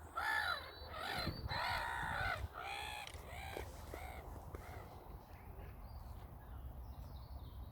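A bird calling over and over, about six loud arched calls in the first four seconds, then fainter, scattered calls, over a low steady rumble.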